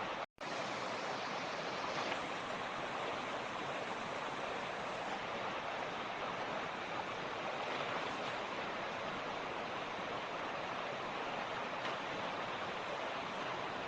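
A creek's water rushing steadily over rocks, an even wash of water noise. It cuts out to silence for a split second just after the start.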